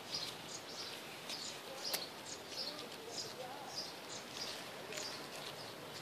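A small bird chirping repeatedly: short, high chirps about two or three a second. A single sharp click comes about two seconds in.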